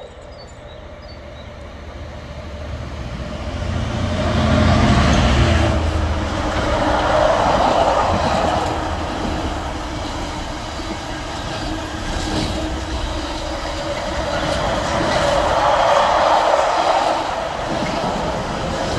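Diesel freight locomotive approaching and passing below, its engine loudest about four to five seconds in, then the steady rolling noise of a long container train's wagons going by, with wheels clicking over the rail joints.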